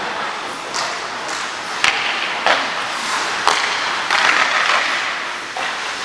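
Ice hockey skate blades scraping and carving on the ice, a steady hiss that swells into a longer scrape past the middle, broken by a few sharp knocks of sticks and puck.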